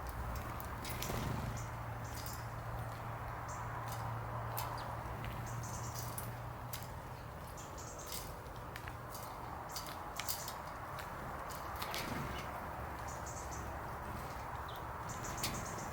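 Small garden birds giving short, scattered chirps over a steady outdoor hiss, with a low hum through the first half.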